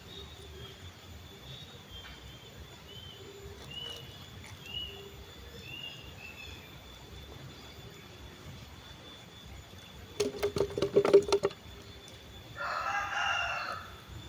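A rooster crows once near the end, a single call of about a second and a half. Just before it comes a short, rapid clatter of clicks, and small birds chirp faintly in the first half.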